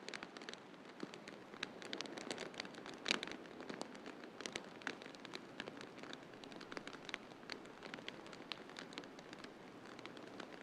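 Wood fire in a fireplace crackling, with frequent small irregular pops and one louder pop about three seconds in, over a steady soft hiss.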